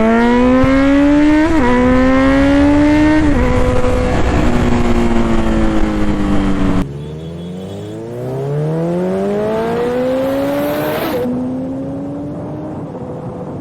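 Kawasaki Z900's inline-four engine accelerating hard through the gears, its pitch climbing and dropping at each upshift, with wind rush. The sound cuts off abruptly about seven seconds in, and a second run-up through the gears follows.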